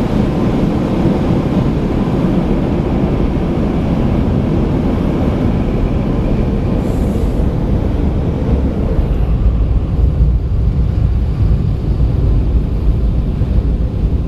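Belanger car wash air dryer blowers running, a loud steady rush of air over the car. About nine seconds in, the hissing upper part of the noise fades and a low rumble remains.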